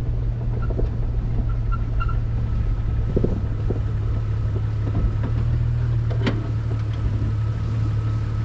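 A 1999 Jeep Cherokee XJ driving, its engine and drivetrain giving a steady low rumble, with small knocks and one sharp click about six seconds in.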